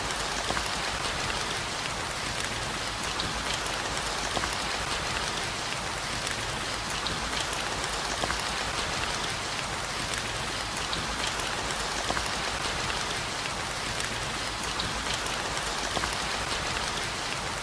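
Steady rain falling, an even hiss with many sharp single drop hits throughout.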